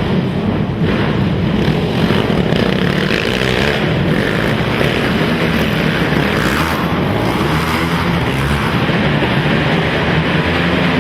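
Several racing quad (ATV) engines running hard, their pitch rising and falling as the riders open and close the throttle.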